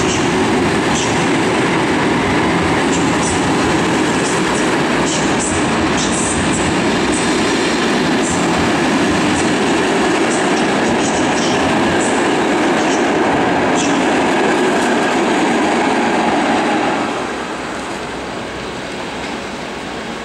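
Passenger coaches rolling past: a steady rumble with short clicks from the wheels over rail joints. It drops noticeably quieter about 17 seconds in.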